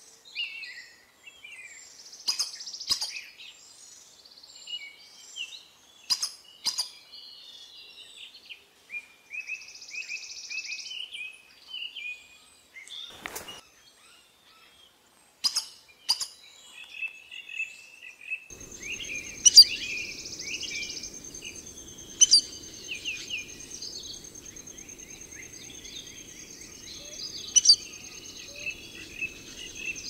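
Several wild birds calling: sharp loud chirps and short chattering phrases, with quieter trills between. A little past halfway a steady high whine and a low rumble join in.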